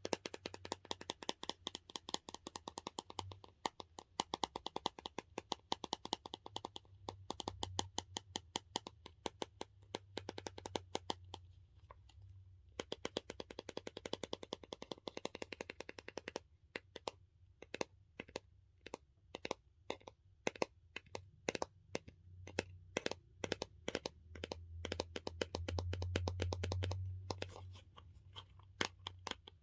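Rapid, dense tapping on the hard case of a squishy dumpling toy, many light clicks a second, with a couple of brief pauses.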